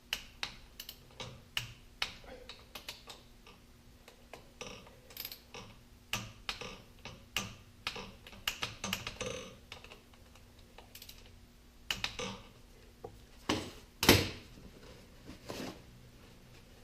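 Hand tools clicking on metal as a bolt is run in and tightened: a string of irregular sharp clicks and ticks, with a louder double clack near the end.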